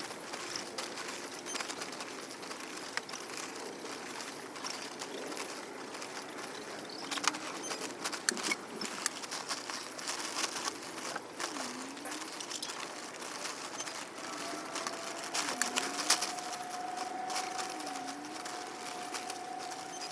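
Light metallic clinks and rattles, with a steady single-pitched alarm tone from a home ventilator starting about three-quarters of the way through and holding on.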